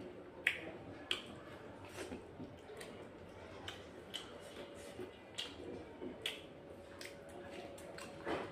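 A person chewing and biting pieces of pressure-cooked chicken eaten by hand, with irregular wet lip smacks and mouth clicks.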